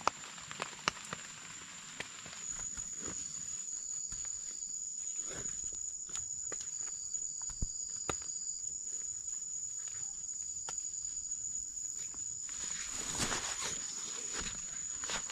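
Insects in the forest, probably crickets, give a steady high-pitched trill, with a fainter second tone just below it. Scattered sharp ticks of dripping water or twigs run under it, and a short rustle comes about thirteen seconds in.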